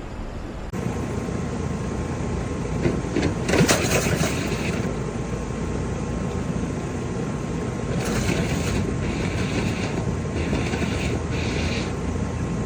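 Air blown in short hissing bursts through a clogged air-conditioner condensate drain line to clear debris, over a steady mechanical running noise. Bursts come about three or four seconds in, near the middle and again near the end.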